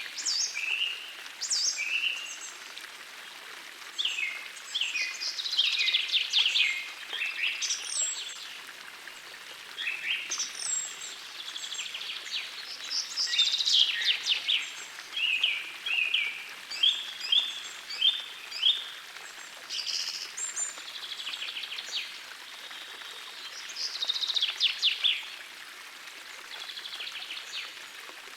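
Songbirds singing in short repeated phrases and trills throughout, over the steady faint rush of a gentle forest stream.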